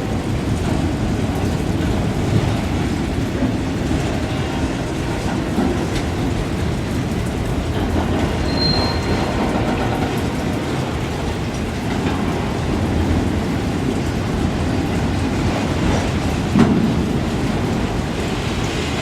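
Train rolling past with a steady rumble of wheels on rail. A brief high squeal comes about halfway through, and a sharp clank near the end.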